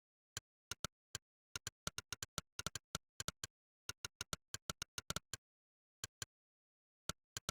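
Monkeytype's 'click' keystroke sound effect, one short sharp click per key pressed while typing: about thirty clicks at an uneven typing rhythm, often several a second, thinning out with gaps in the last two seconds.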